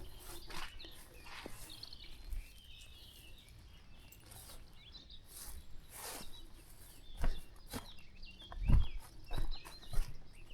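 Irregular footsteps on a country path, with the heaviest steps in the last few seconds, and small birds chirping in short, repeated calls behind them.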